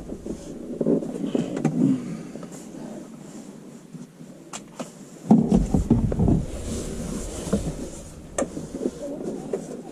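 Handling noise of a dash cam power wire being pushed behind a car's interior plastic trim: irregular rustling and scraping with scattered sharp clicks, louder for about a second just past halfway.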